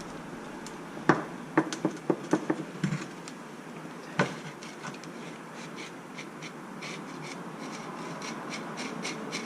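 Small metal parts clicking and knocking as a seized center differential is worked loose from its plastic housing on a Traxxas X-Maxx 8S, with a handful of sharp knocks in the first half, then a run of faint, quick ticks.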